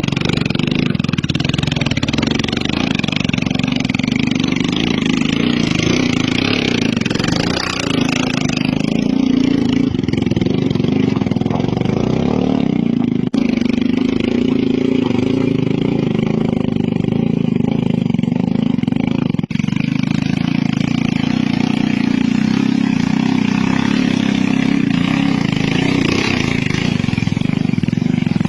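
Motorcycle engine running hard under load on a steep climb, its pitch rising and falling as the throttle is worked. There are two brief breaks partway through.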